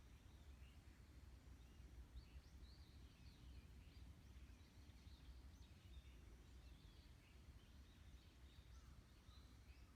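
Faint birdsong, many small birds chirping and twittering in short scattered phrases, over a steady low wind rumble.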